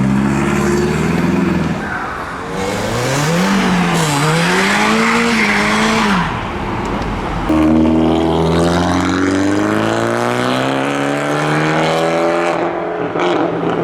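Modified car engines as cars pull out: about three seconds in, one engine revs up and down twice. Near the middle the sound changes suddenly to an engine pulling away with its pitch slowly rising.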